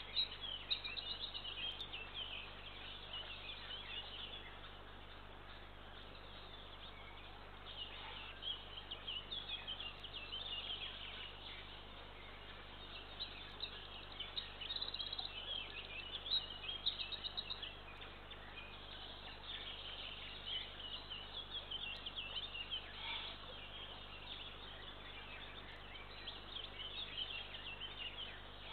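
Songbirds singing in the surrounding forest: many short, overlapping chirps and trills throughout, over a faint steady low hum.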